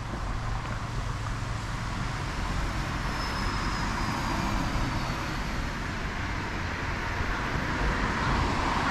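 Steady city street noise: road traffic running past, an even wash of engine rumble and tyre noise.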